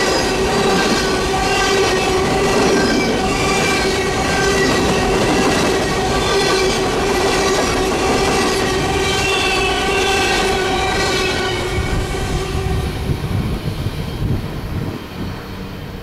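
Empty coal hopper cars of a freight train rolling past, wheels squealing with a steady high ring over the rumble and clatter of the cars. The sound dies away about twelve seconds in as the last car passes.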